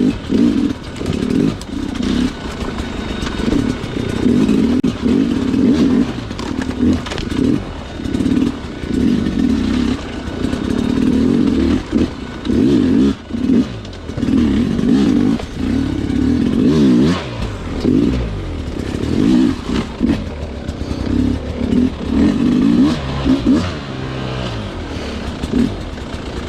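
Sherco two-stroke dirt bike engine revving on and off in repeated bursts of a second or two. The throttle is opened and chopped again and again, with short dips in between, as on slow, technical trail riding.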